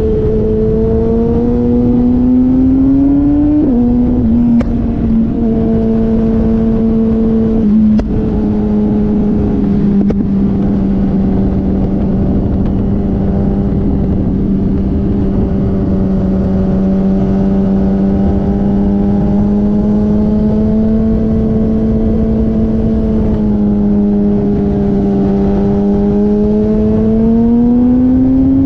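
Motorcycle engine under way, its note climbing and then dropping abruptly about four seconds in, with another quick step near eight seconds, as at gear changes. It then holds a fairly steady pitch for a long stretch and climbs again near the end.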